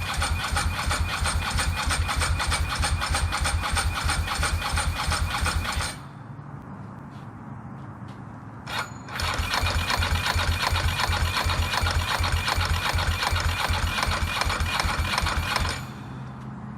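Electric starter cranking a Ducati 916's 90° V-twin in two spells of about six seconds each, with a rapid, even chugging rhythm and a brief blip between them. Each spell stops abruptly without the engine catching and running.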